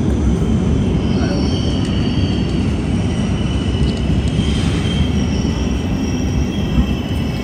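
Train running on the rails: a continuous low rumble, with thin high squealing tones from the wheels that come and go.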